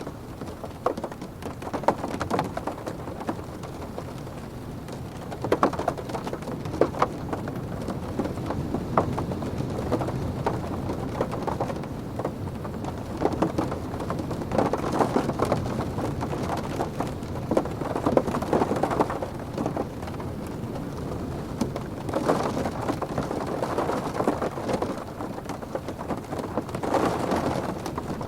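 Heavy rain pattering and drumming on a car's roof and windows, heard from inside the cabin, dense with individual drop hits and swelling louder several times as the wind gusts.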